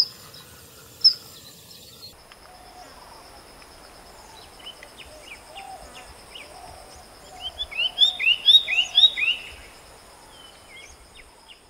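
Birds calling in a field recording: scattered chirps over a steady high-pitched whine, a soft low whistled note repeated now and then, and, about eight seconds in, a quick run of loud sweeping whistles.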